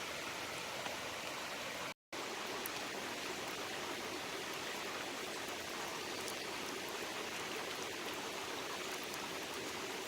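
Steady rush of a mountain stream, with light rain sprinkles adding scattered faint ticks of drops. The sound cuts out for a split second about two seconds in.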